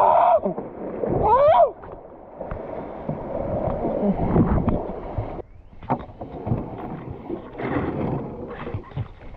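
Water splashing and sloshing around a kayak, with scattered short knocks. Two brief voice-like calls come in the first two seconds.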